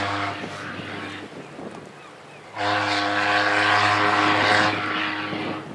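Steamship SS Shieldhall's steam horn tooting: a short blast that fades out in the first second, then a longer blast of about three seconds, a steady low pitched note with steam hiss on top.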